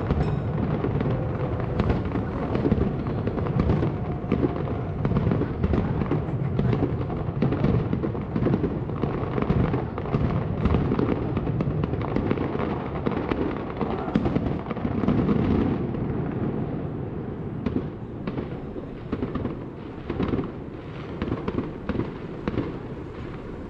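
Fireworks display: a dense, continuous barrage of bangs and crackles with a rumbling echo, thinning out and growing quieter over the last several seconds.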